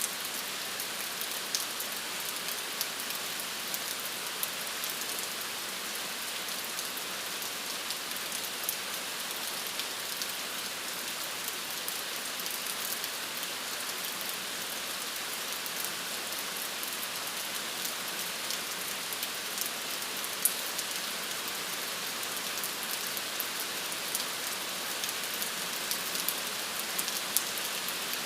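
Steady rain falling on a surface, a continuous hiss dotted with many small sharp drop ticks.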